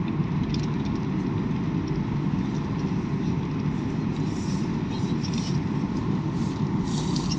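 Steady low rumble of an airliner's engines and airflow heard inside the passenger cabin, with a few faint rattles about halfway through and near the end.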